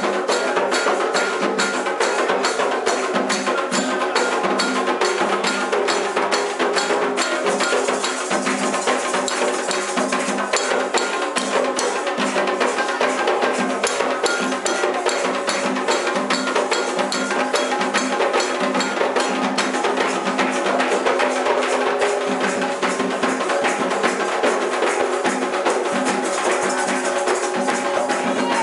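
Candomblé ceremonial drumming: atabaque hand drums and a struck bell keep a steady fast rhythm under held chanting.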